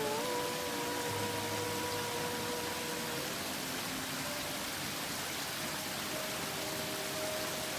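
Waterfall rushing steadily, with a faint held tone and its octave in the first three seconds.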